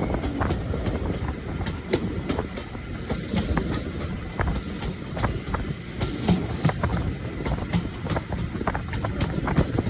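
Railway train running along the track: a steady low rumble of wheels on rails with frequent irregular clicks and knocks.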